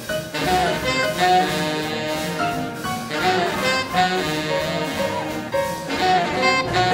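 A big band playing hot swing jazz live, with saxophones and brass playing ensemble lines.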